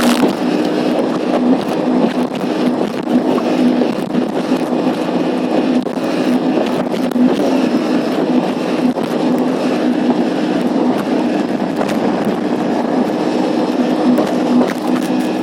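Personal watercraft (jet ski) engine running steadily at speed, its pitch dipping briefly now and then, over loud rushing water and wind noise with scattered knocks and scrapes, heard from a camera inside a waterproof bag.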